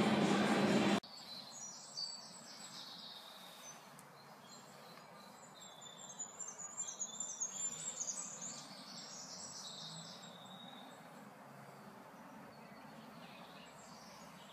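Birds chirping and twittering in many short high calls, busiest in the middle, over faint outdoor background noise. A loud steady noise fills the first second and cuts off abruptly.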